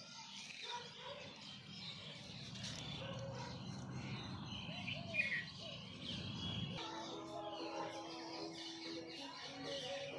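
Small birds chirping and tweeting repeatedly, over a low rumble that stops abruptly about two-thirds of the way through.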